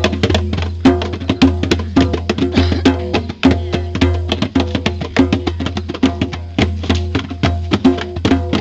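Live band music: fast, steady drumming with a sustained low bass tone and held pitched notes underneath.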